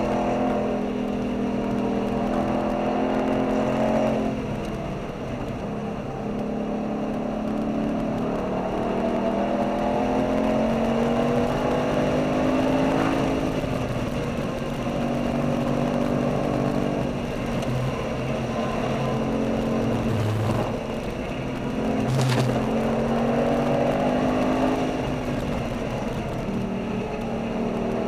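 V8 engine of a car lapping a race track hard, heard from inside its cabin. The revs climb under full throttle and drop away several times as the driver lifts or shifts for corners. A single sharp knock comes about three-quarters of the way through.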